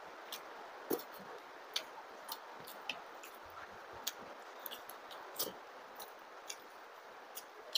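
Close-up eating sounds from a man eating fish curry and rice with his fingers: irregular wet clicks and lip smacks as he chews and sucks his fingers, over a faint steady hiss.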